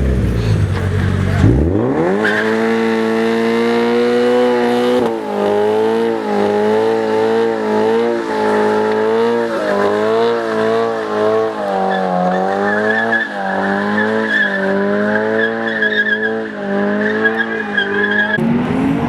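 Car engine revved hard about a second and a half in and held at high revs, its pitch wavering up and down, while the tyres squeal in a burnout. The revs drop near the end.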